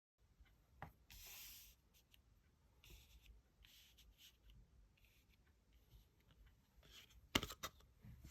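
Faint hand-handling of tarot cards: cards rubbing and sliding over a surface in a few scratchy strokes, one longer slide about a second in, with a sharp tap about seven seconds in.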